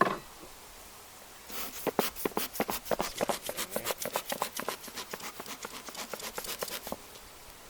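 Dense, irregular run of short clicks and scrapes from wooden beehive frames and a hive tool as a frame is worked loose and lifted out of the box, starting about a second and a half in and stopping near the end.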